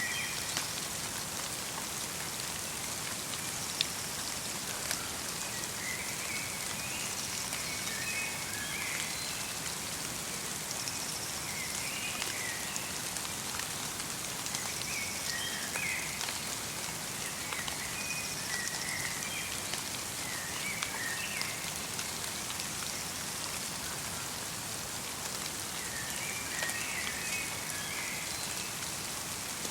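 Light rain mixed with snow falling steadily, with small birds giving short chirping calls every few seconds.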